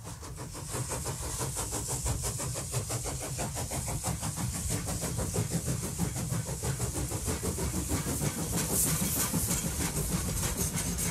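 A train running with a fast, even beat of several strokes a second, fading in and growing louder over the first few seconds.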